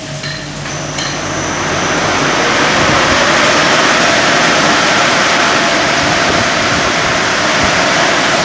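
Automatic car wash running: a steady rush of spraying water and machinery that builds over the first two or three seconds, then holds loud and even.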